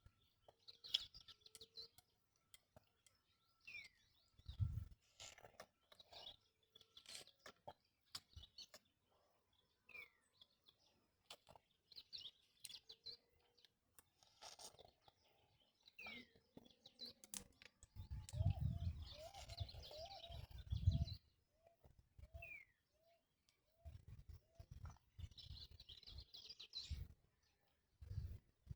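Faint bird chirps and short falling calls among scattered small clicks, with a run of quick repeated little calls, about two a second, about two-thirds of the way through.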